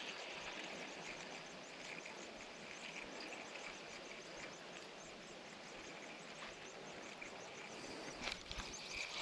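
Faint creekside ambience: insects chirping in a fast, even rhythm over a steady hiss of flowing creek water, with a few soft knocks near the end.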